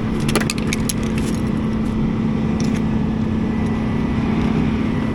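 Rollback tow truck's engine running steadily with a constant hum, with a few sharp clicks and rattles in the first second or so and one more a little later.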